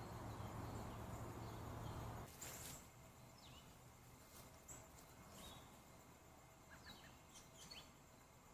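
Faint outdoor quiet: a low rumble stops abruptly about two seconds in. After that, scattered faint bird chirps sound over a hushed background.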